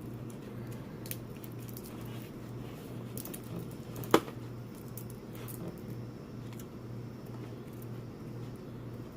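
Eating sounds from a seafood boil: soft wet squishing as shellfish is handled and chewed, with scattered light clicks and one sharp click about four seconds in, over a steady low hum.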